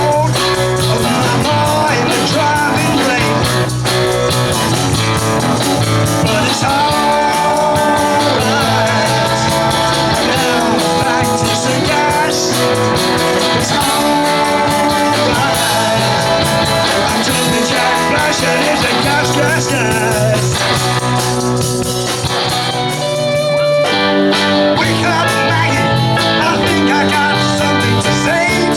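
Live rock band playing an instrumental passage, guitar to the fore over bass and drums.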